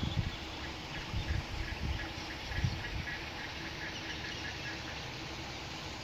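A bird calling in a quick run of short, evenly repeated high notes, several a second, from about two seconds in until about five seconds in. Low thumps on the microphone come in the first few seconds.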